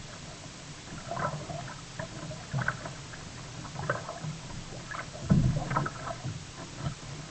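Sea kayak being paddled: a series of splashes and gurgles from the paddle and water at the hull, about one every second or so, over a steady wash of water. A louder low thump comes a little after five seconds in.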